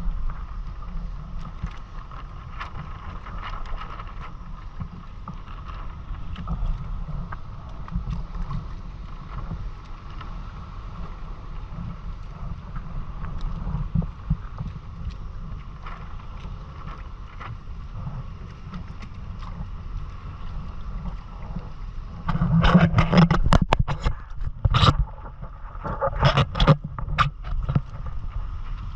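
Hobie Island sailing kayak under way: wind rumbling on the microphone and water moving past the hull. About three-quarters of the way through comes a burst of loud knocks.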